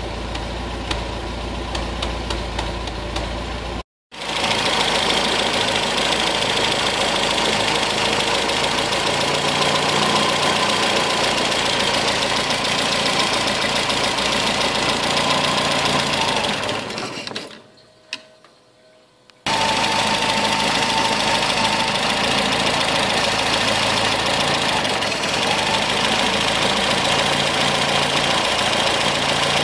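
MGB four-cylinder engine idling: first heard steady at the tailpipe, then close up at its twin SU carburettors with the air filters off, with a loud steady intake hiss. The front carburettor is drawing no air while the rear one is. The sound drops away briefly about two-thirds of the way through, then resumes.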